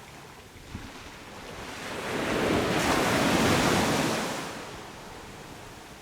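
Sea surf on a beach: one wave swells up, breaks loudly in the middle and washes back down, over a steady background wash of water.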